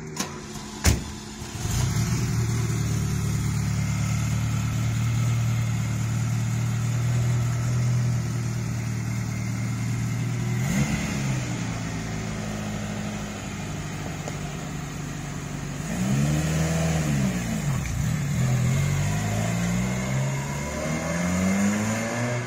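1983 Ferrari Mondial QV's 3.0-litre quattrovalvole V8, warm, running at a steady idle through its stock Swiss-spec exhaust, after a sharp knock about a second in. There is a brief blip of revs near the middle, and from about two-thirds of the way in the engine note rises and falls again and again as the car pulls away.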